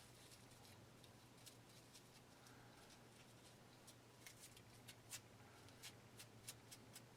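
Faint, sharp little clicks and ticks of ceramic shards being handled and fitted together, coming more often in the second half, over a steady low hum.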